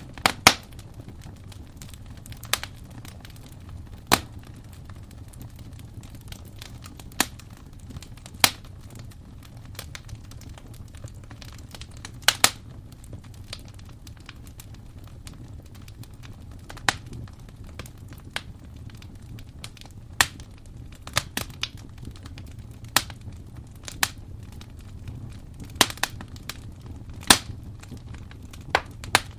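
Wood fire in a fireplace burning, with sharp irregular crackles and pops over a low, steady rush of flame.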